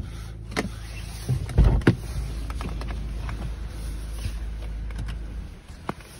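BMW engine idling, heard from inside the cabin as a steady low hum, with knocks and thumps of someone shifting in the driver's seat and a couple of clicks near the end.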